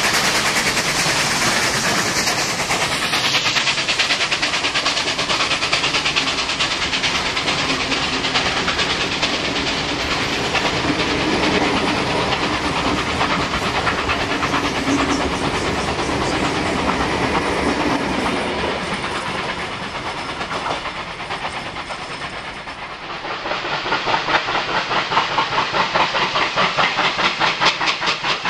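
Two NSW 38 class 4-6-2 steam locomotives double-heading a train: a dense, rapid chatter of exhaust beats mixed with steam hiss. About three-quarters of the way through the sound dips briefly and gives way to a slower, regular pulsing of about two beats a second.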